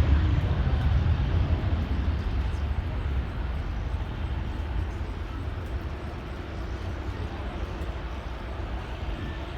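Jet engine rumble of a departing Boeing 737-800's CFM56-7B turbofans, a steady low roar that slowly fades as the aircraft climbs away.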